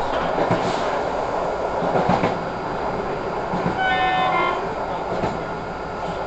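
Passenger train in motion: a steady rumble of wheels on the track with a few clicks over rail joints, and a short train horn blast about four seconds in, lasting under a second.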